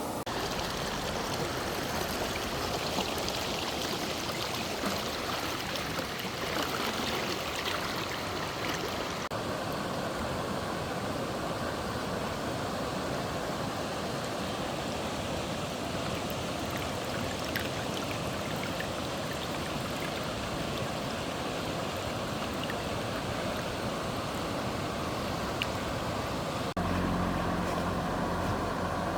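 Fast-flowing stream water rushing steadily below a weir. Near the end a low steady hum joins the water sound.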